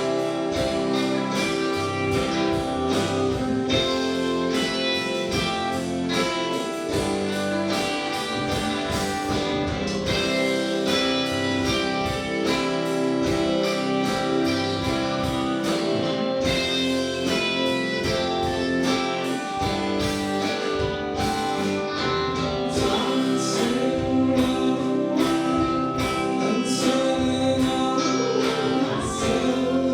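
Live indie rock band playing a song, with electric guitar, drums and a singer's voice.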